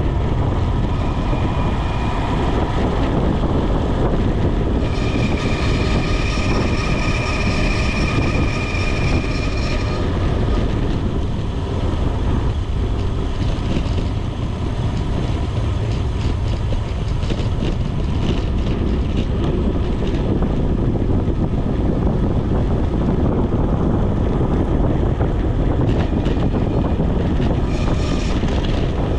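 Wind rushing over the microphone of a bicycle descending at speed in the rain: a loud, steady low rumble. A thin high squeal comes and goes, loudest from about five to ten seconds in.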